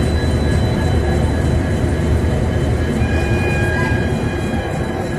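Train running on rails: a loud, steady low rumble, with a thin high whine joining about three seconds in.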